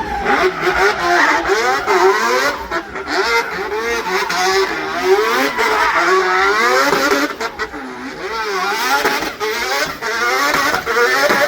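Car engine running hard, its pitch rising and falling again and again as it revs and accelerates.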